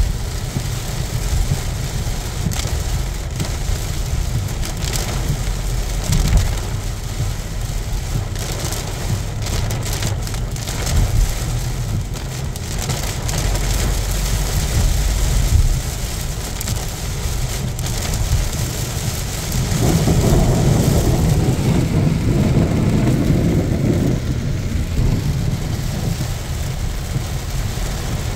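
Heavy rain pelting a moving car, heard from inside the cabin, over a steady low rumble of road and engine noise. About twenty seconds in, a louder low rumble swells for several seconds.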